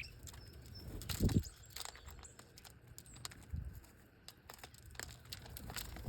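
Outdoor yard sound: a few brief, high bird chirps among scattered faint ticks and taps, with a soft low thump about a second in and another past three seconds.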